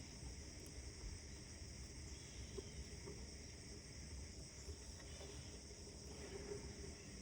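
Steady high-pitched insect chirring with a few faint bird calls over it and a low rumble underneath.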